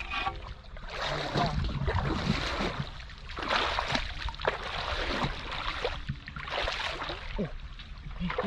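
Water splashing and sloshing in repeated surges about every second or so, over a low steady rumble.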